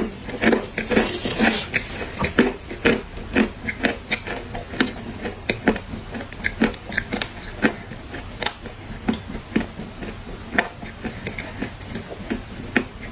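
Dry clay being crushed and crumbled, giving a dense run of sharp, irregular crunches and crackles, busiest in the first couple of seconds.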